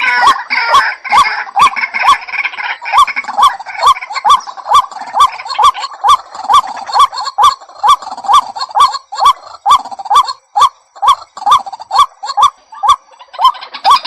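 White-breasted waterhen calling a long, steady run of short, sharp notes, about two a second, with busier overlapping calling in the first few seconds and again at the very end. This is a lure call of the kind used to draw the birds in.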